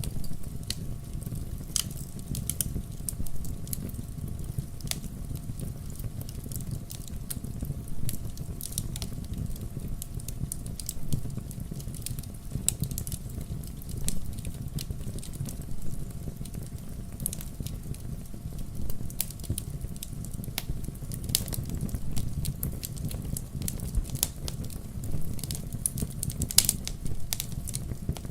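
Wood logs burning in a fireplace: a steady low rumble of the flames with frequent irregular crackles and pops, a few louder snaps near the end.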